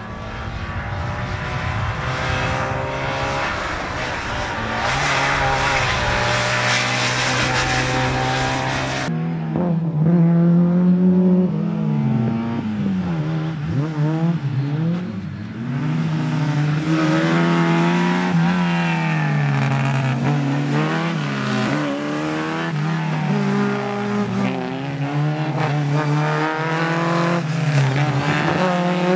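Competition car's engine revving hard and easing off again and again as it is driven through a tight slalom course, with tyres squealing at times. The sound changes abruptly about nine seconds in, from a noisier run to a clearer, repeatedly rising and falling engine note.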